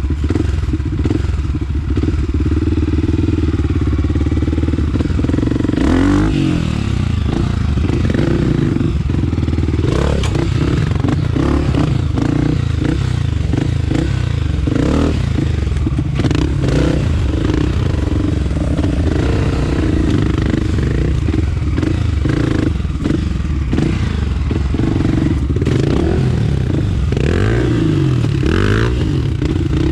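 Honda CRF250F single-cylinder four-stroke engine running under load off-road, its pitch rising and falling as the throttle is opened and closed, heard from the rider's helmet. Scattered clattering knocks from the bike going over rough ground.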